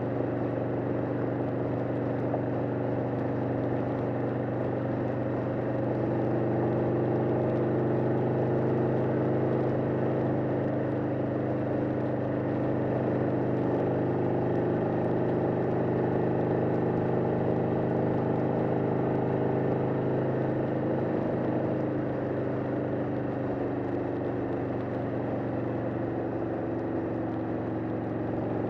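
1991 Harley-Davidson XL883 Sportster's air-cooled V-twin engine running steadily at highway cruising speed, heard from the rider's seat.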